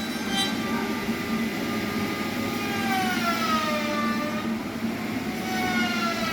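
Heavy sawmill machinery running: a steady low engine drone under a squealing whine of several pitches that slowly falls and rises again.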